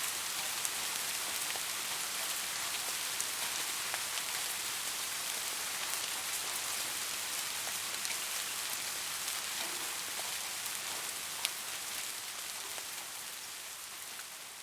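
Steady rain falling, an even hiss with scattered individual drops ticking sharply. It fades down over the last few seconds.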